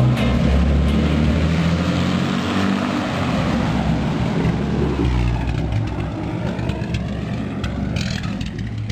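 Engine of a vintage Protos racing car running as it drives off, a loud low rumble that eases a little as the car pulls away.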